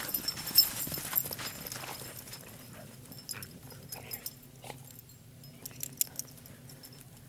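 Dogs digging and scrabbling in dry dirt: irregular scrapes and scratches, busiest in the first two seconds and then scattered.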